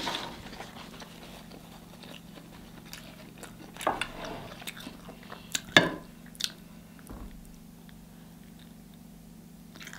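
Close-miked chewing and mouth smacks of a person eating steamed lobster tail meat, with a few sharp lip smacks about four to six and a half seconds in. A steady low hum lies underneath.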